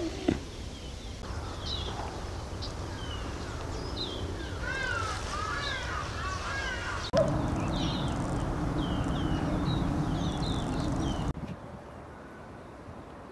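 Wild birds calling and chirping in the trees, several at once. A quick run of rising-and-falling calls comes about five seconds in.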